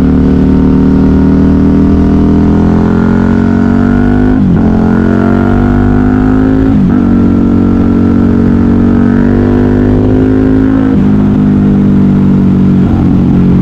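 KTM 990 Super Duke R's V-twin engine through a custom exhaust, pulling hard under acceleration. The revs climb twice, each ending in a quick dip at an upshift about 4.5 and 7 seconds in. After that the engine runs at a steadier pitch, with short dips again near 11 and 13 seconds.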